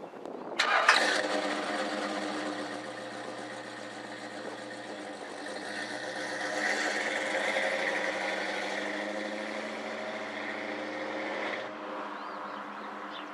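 A car engine starting about half a second in and then running steadily, swelling in the middle before cutting off near the end.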